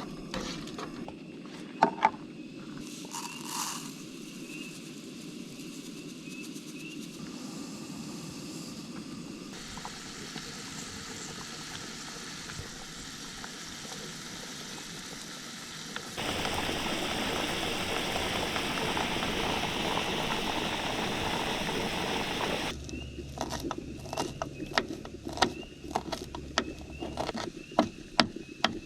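Camp cooking sounds in a string of short cut-together clips: steady crackling and sizzling, a louder stretch of even hissing in the middle, then a run of sharp clicks and taps near the end.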